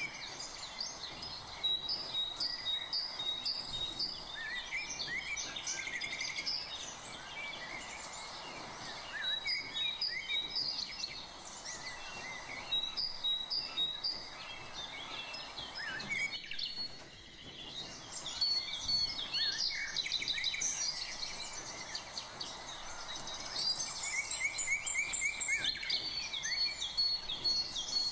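Several birds chirping and calling, with quick runs of repeated high notes and short falling whistles, over a steady background hiss.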